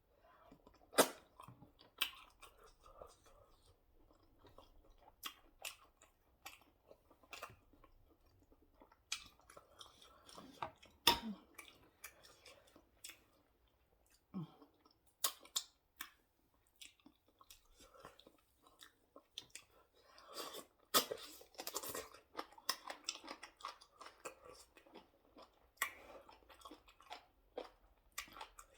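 A person chewing a mouthful of fufu and ogbono soup close to the microphone, with irregular wet lip smacks and sharp mouth clicks, the loudest about a second in and about eleven seconds in.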